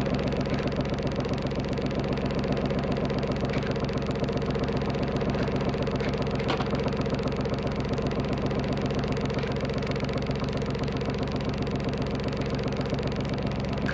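A boat's engine idling steadily with an even, fast pulse, left running while the yacht waits to float clear of the mud. One brief click about six and a half seconds in.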